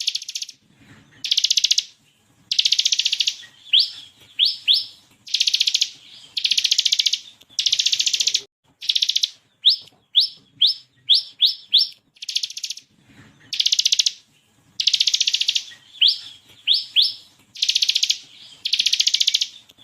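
Bar-winged prinia (ciblek kristal) singing: dense rattling bursts of about a second each, the fast "ngebren" trill, alternating with quick runs of three or four sharp rising "shot" notes.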